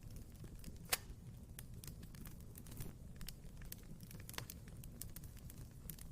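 Wood fire crackling in a fireplace: irregular small pops and snaps with one loud sharp pop about a second in, over a low steady rumble of the flames.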